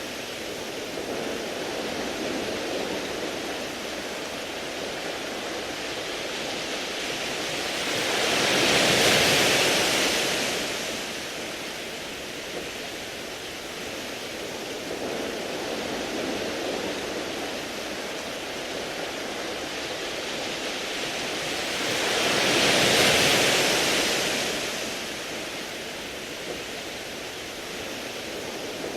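Sea waves washing up a beach of smooth rounded pebbles, a steady hiss with two waves swelling and falling back, about nine seconds in and again near twenty-three seconds.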